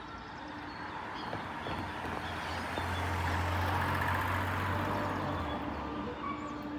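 A motor vehicle passing by: its road and engine noise swells to a peak in the middle, with a low engine drone, then fades. Small birds chirp faintly behind it.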